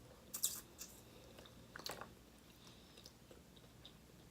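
Quiet close-up eating sounds: a few soft crunches and clicks of someone chewing and biting seafood, the loudest about half a second in and another near the two-second mark.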